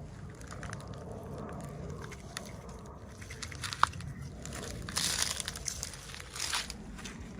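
Plastic packaging crinkling and crackling as it is handled and opened, with small clicks, one sharp click near the middle, and louder crinkling bursts in the second half.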